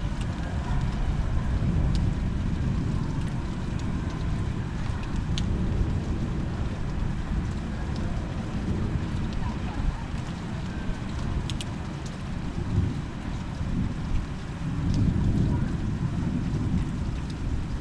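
Thunderstorm ambience: a steady low rumble that swells near the end, with scattered sharp ticks of raindrops.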